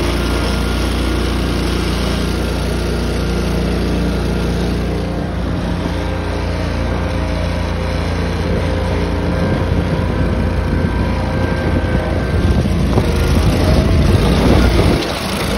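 Tractor engine running steadily, growing louder near the end and then easing off.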